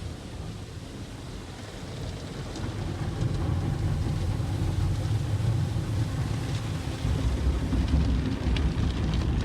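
Automatic car wash machinery and water spray drumming on the car body, heard from inside the car: a steady low rumble with a rain-like hiss that grows louder after about two seconds.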